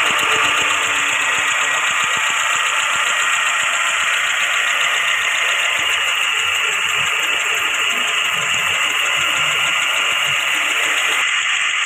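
Mahindra Logan's Renault 1.4-litre four-cylinder petrol engine idling after a general service, heard close up from the engine bay. It runs steadily, with no change in speed.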